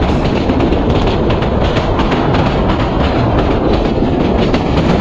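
Passenger train running at speed: a loud, steady rumble of PT INKA coaches' wheels on the track with rapid, irregular clicks of the wheels passing over rail joints, heard close beside the coach from an open window.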